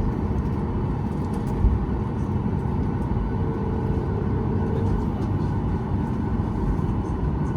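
Steady low rumble of cabin noise inside a Boeing 737 MAX 8 on the ground after landing: engines and air systems running, with no distinct events.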